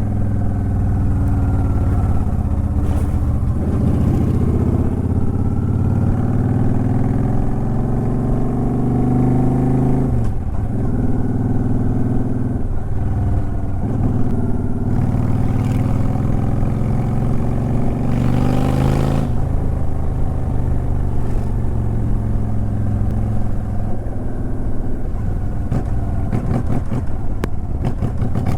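2009 Honda Shadow Aero 750's V-twin engine and exhaust under way, revving up in long rising sweeps with brief dips at each gear change, then running steadier in the last third.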